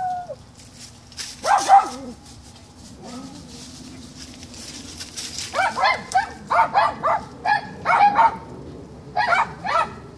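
Dogs barking: a couple of barks about a second and a half in, then a rapid run of barks from about five and a half to eight and a half seconds in, and two more near the end.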